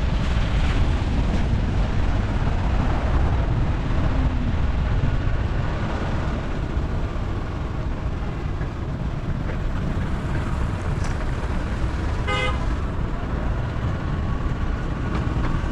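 Steady rumble of a vehicle driving on the road, with one short horn toot about twelve seconds in.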